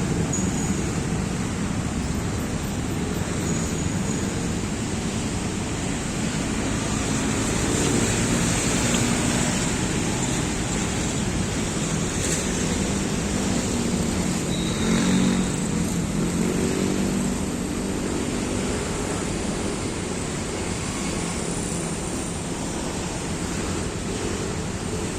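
Steady wash of distant city traffic noise, with a few brief faint high chirps.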